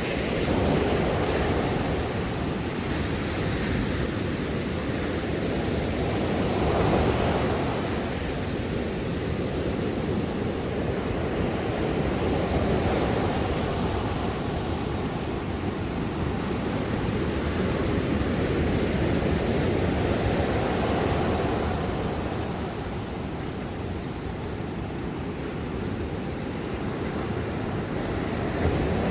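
Ocean surf: a steady rush of breaking waves, swelling and easing every few seconds.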